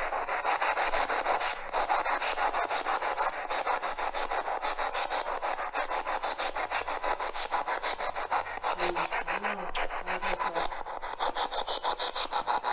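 Spirit box sweeping through radio stations: a continuous rapid chopping of static, several stutters a second, with faint snatches of a voice about nine seconds in. It cuts off at the end.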